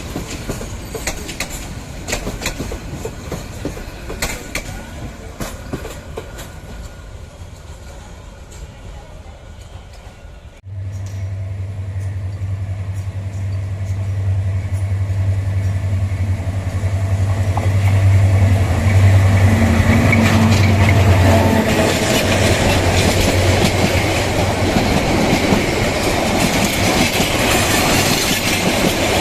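A train running on rails, its wheels clicking over rail joints, the clicks fading away. After an abrupt cut, a steady low hum comes in and grows louder as another train approaches, its rumble and rail noise building to a peak about two-thirds of the way through.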